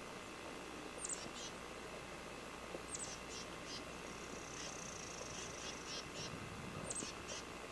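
A small bird calling faintly, repeating a short high-pitched phrase about every two seconds: a quick falling note followed by three or four short chirps, with one longer steady whistle in the middle.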